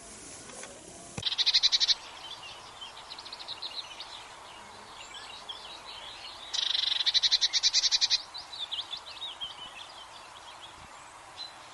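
Birdsong laid under an end card: starting about a second in, a loud rapid high trill, quieter chirps, then a second loud trill, over a faint steady background hiss.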